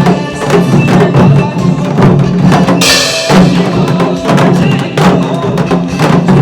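Group of janggu (Korean hourglass drums) struck in time with a trot song, sharp stick strokes over the song's steady beat, with a bright crash about three seconds in.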